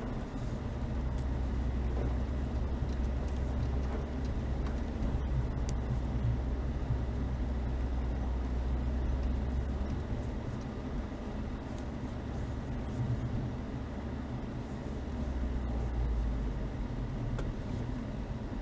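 Chevrolet Niva running at low speed on a snowy track: a steady low engine and drivetrain drone, heavier for the first half and again briefly near the end.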